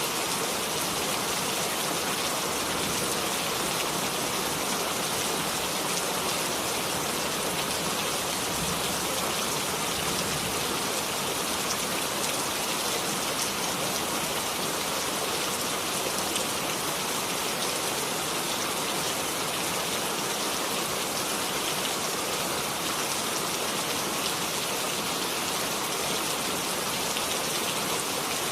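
Steady rain falling, an even hiss of drops on a surface with no breaks or distinct hits.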